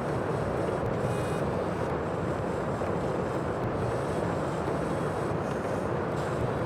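Steady rushing noise of sea and wind, even in level, with no separate wave breaks standing out.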